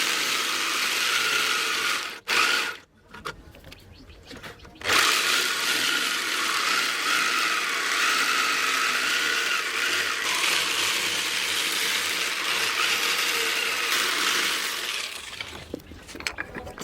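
Electric grinder running against the steel of a machete blade: a steady, high hiss with a wavering whine for about two seconds, a pause, then a long second pass of about ten seconds that fades out near the end.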